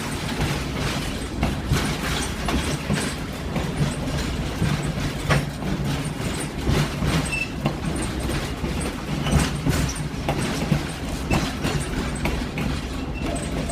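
Ride noise aboard a slow-moving excursion train at about 15 miles per hour: a steady low rumble with irregular clacks and knocks as the wheels pass over rail joints.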